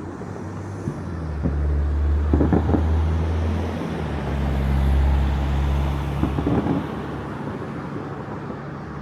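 A motor vehicle engine passing close by: a low rumble that swells, holds and fades, with a few distant firework bangs over it.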